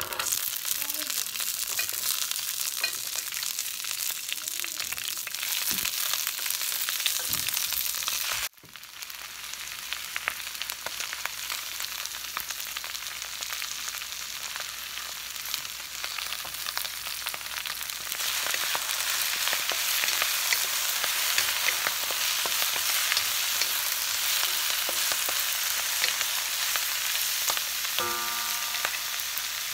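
Chinese broccoli and garlic sizzling in hot oil in a wok as the greens are dropped in and stir-fried with a wooden spatula: a steady frying hiss with faint scraping clicks. The sizzle jumps up as the greens hit the oil, breaks off for a moment about eight seconds in, and grows louder past the midpoint.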